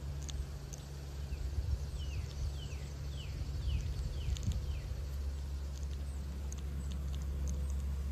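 A bird calling a run of about six quick falling notes, roughly two a second, over a steady low rumble.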